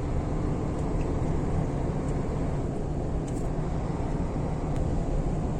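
Steady engine drone and road rumble heard inside the cab of a long-haul truck driving on a highway.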